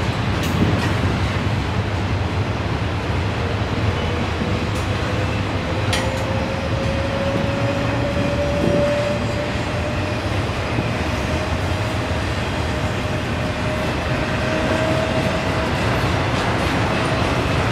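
Autorack freight cars rolling past, a steady low rumble of the train. A faint thin tone slowly rises in pitch through the middle and later part, and a single sharp click comes about six seconds in.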